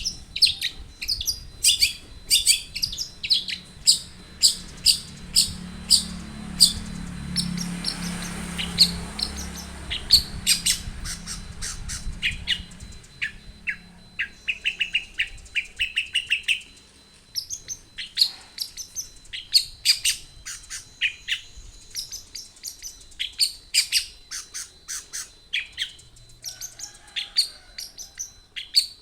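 Long-tailed shrike singing: runs of short, sharp, high chirps in quick succession, broken by brief pauses.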